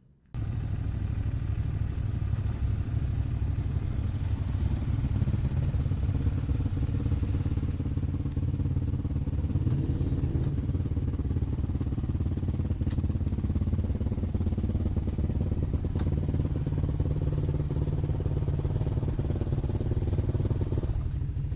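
Motorcycle engine running steadily under way, a continuous low rumble with road and wind noise over it. It starts abruptly just under half a second in.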